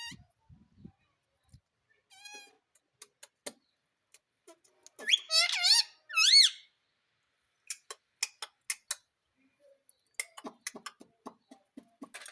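Pet parrot making squeaky, warbling calls: a short one about two seconds in, then a longer run from about five to six and a half seconds, with sharp clicks scattered in between.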